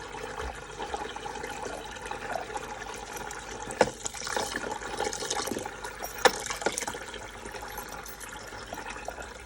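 Water running steadily from a tap, with a few sharp clicks about 4 and 6 seconds in.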